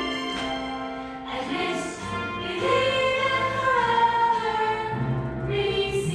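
A Christian worship song with a choir of voices singing long held notes over instrumental backing.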